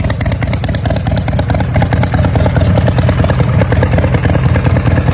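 Motorcycle engine running loudly and steadily, with a rapid, even beat of exhaust pulses.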